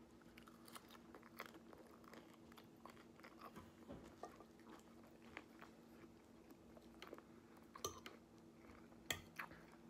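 Faint close-up chewing of a mouthful of lettuce salad with dressing: soft crunching and wet mouth clicks, with a couple of sharper clicks near the end. A low steady hum sits underneath.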